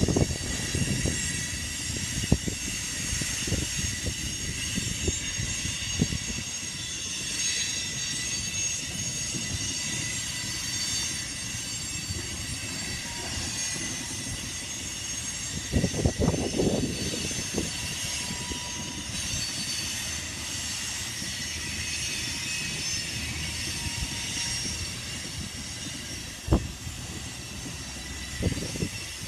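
A grain train's hopper cars rolling past: a steady rumble of wheels on rail with scattered sharp clacks, the loudest about halfway through, under a high, steady wheel squeal.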